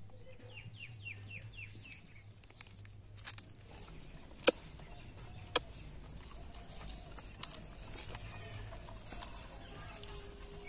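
A bird calling in a quick run of about seven short falling chirps near the start, then a few sharp clicks, the loudest about four and a half seconds in, over a low steady hum.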